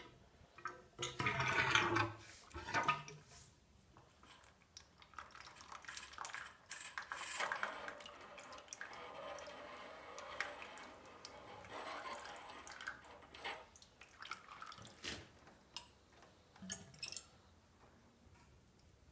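Old fork oil pouring and dripping out of a Yamaha Virago 1100 front fork leg in uneven spurts, loudest about one to three seconds in, with a few sharp clicks later on.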